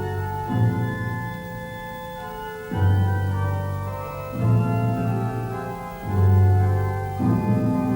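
Organ music: sustained chords, with a new low bass note coming in every second or two.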